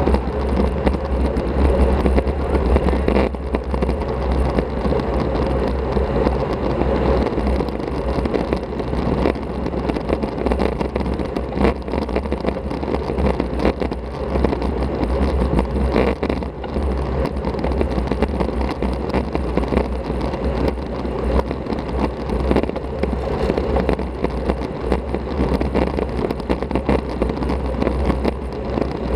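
Wind rumble on an action camera's microphone on a moving road bicycle, mixed with steady road noise.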